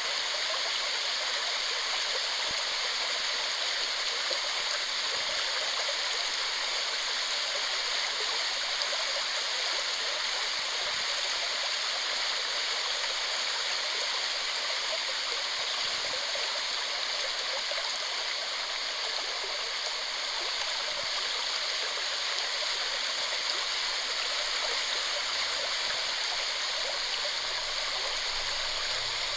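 Waterfall: water falling and rushing steadily, an even, fairly high-pitched rush with little deep rumble.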